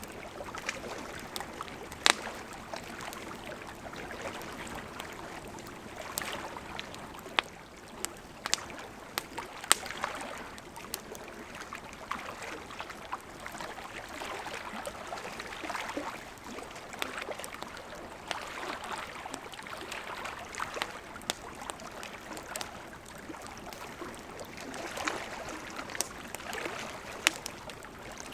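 Wood campfire crackling, with irregular sharp snaps and pops, over the steady rush of a gently flowing river.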